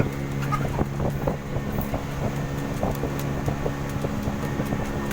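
A small boat's engine running steadily, with a string of light knocks and clicks over its drone.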